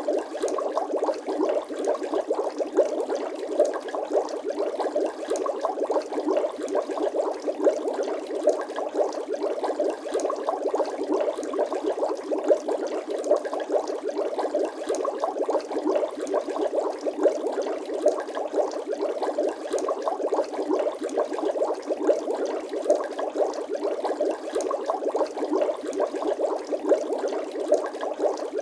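Water bubbling sound effect: a dense, steady stream of small bubbles, thin and without any deep tones.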